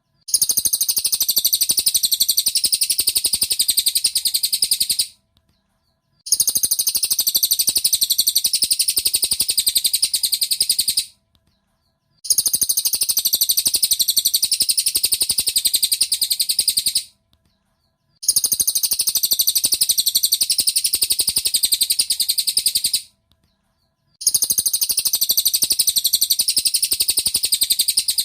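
Cililin bird song, a dense string of rapid, high-pitched chirps in runs of about five seconds, each broken by about a second of silence and repeating the same way. This is a looped training recording (masteran) for songbirds.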